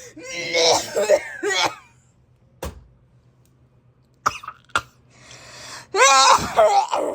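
A person coughing and clearing their throat in two hoarse bouts, a smoker's cough. Three sharp clicks fall in the pause between the bouts.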